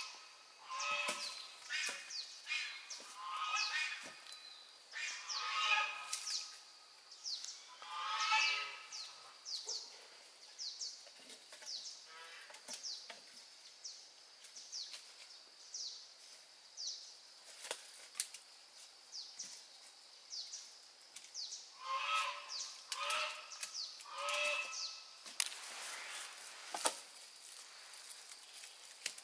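Birds calling: loud, repeated calls come in short series near the start and again about three-quarters of the way through. Many short, high, falling chirps and a faint steady high hum run underneath.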